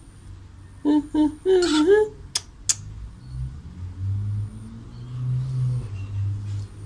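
A few short, wavering sung syllables, two sharp clicks, then a long low hum that rises a little in pitch.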